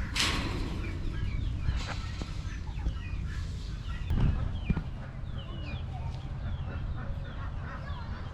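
Farmyard fowl calling, chickens clucking among them, as many short chirping calls scattered throughout.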